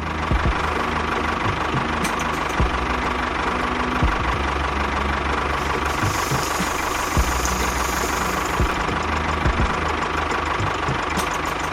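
A small engine running steadily, with scattered sharp knocks over it.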